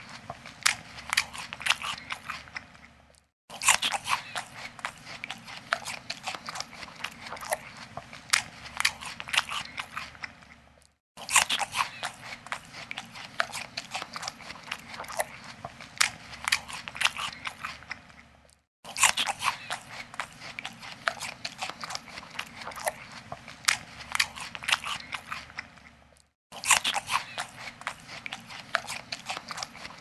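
An animal crunching and chewing food: dense, crisp crunches that come in stretches about seven and a half seconds long, each cut off by a brief silence.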